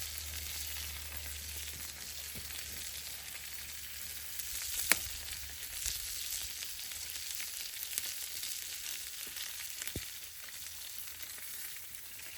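Food frying in a pan: a steady sizzling hiss with a few sharp pops, the loudest about five seconds in.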